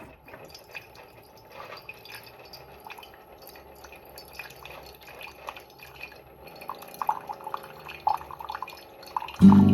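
Keurig Duo coffee maker running its cleansing brew: hot water dripping and trickling from the brewer into the cup, the drips coming faster in the second half. Music starts abruptly near the end.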